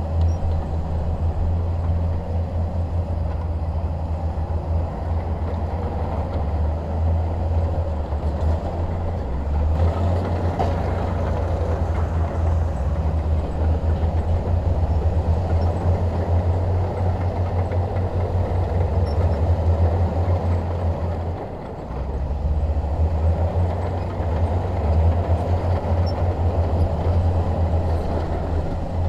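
Shantui DH17 bulldozer's diesel engine running with a steady, heavy low rumble. It dips briefly about twenty-two seconds in, then picks back up.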